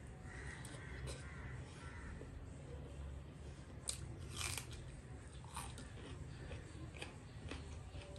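Close mouth sounds of eating by hand: chewing and wet lip smacks, with a few short sharp clicks about four to seven seconds in, over a low steady hum.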